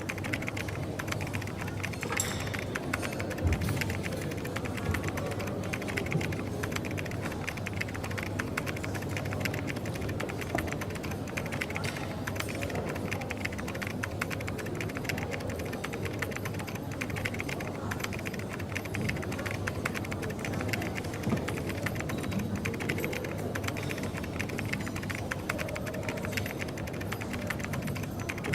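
Continuous rapid clicking of typing on a computer keyboard over steady coffee-shop background noise.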